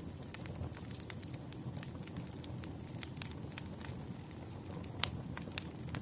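Wood fire crackling: irregular sharp pops and snaps over a low steady rumble of burning logs, with one louder pop about five seconds in.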